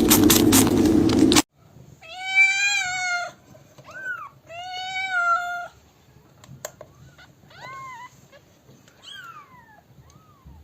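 A loud rattling noise cuts off about a second and a half in. Then a domestic cat meows: two long, drawn-out meows followed by several shorter ones, some falling in pitch.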